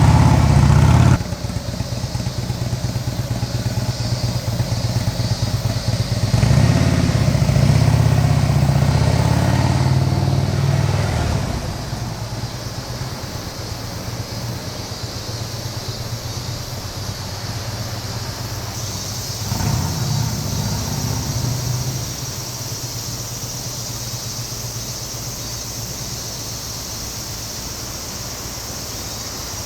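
Harley-Davidson Dyna Switchback V-twin running through a Vance & Hines Twin Slash 2-into-1 slip-on muffler, a steady deep exhaust note. It drops in level about a second in, swells again for several seconds from about six seconds, then settles lower, with a briefer swell past the twenty-second mark.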